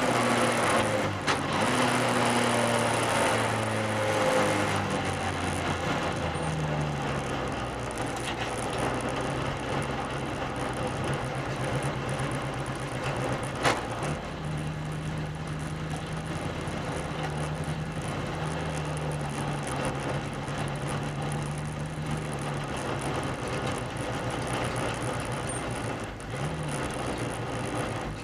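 Volkswagen Beetle's air-cooled flat-four engine running hard in a race, its pitch falling early on and then stepping up and down with throttle and gear changes, over a steady rushing noise. A single sharp click comes about 14 seconds in.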